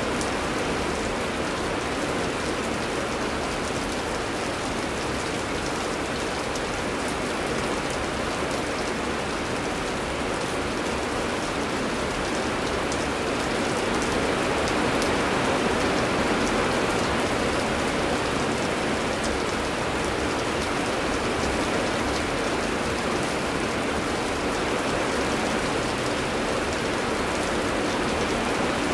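Steady heavy rain: a dense, even hiss of rainfall with scattered sharper drop ticks on top.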